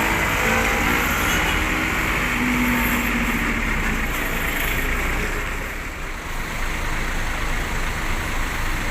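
Motor traffic at a roadside bus stop: a large vehicle's engine hums, then dies away after about three seconds, leaving steady road noise.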